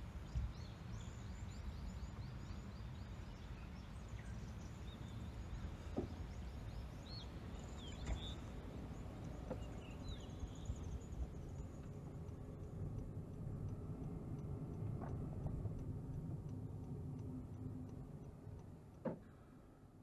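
Birds chirping over a steady low rumble, the chirps thinning out about halfway through and the whole sound fading away near the end.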